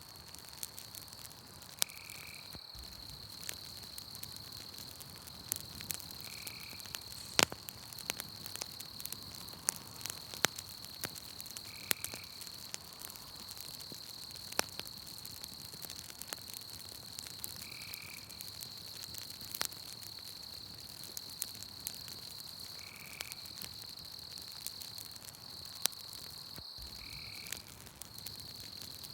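Campfire crackling with frequent sharp pops, over a steady high insect trill and a short chirp that repeats about every five to six seconds.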